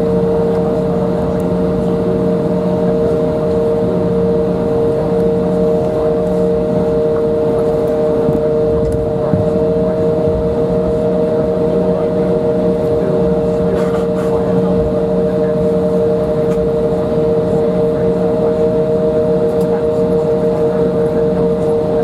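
Steady jet-engine whine and rumble heard inside the cabin of an Embraer 175 on the ground with its GE CF34 turbofans at idle. Two steady whining tones sit over the rumble and do not change pitch.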